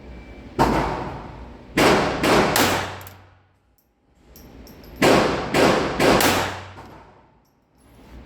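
Taurus TX22 .22 LR pistol firing: a single shot, then three quick shots, a pause, then four more in quick succession. Each report trails off in echo.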